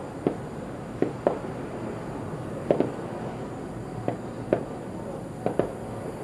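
Distant aerial firework shells bursting: about nine sharp bangs at irregular intervals, some coming in quick pairs.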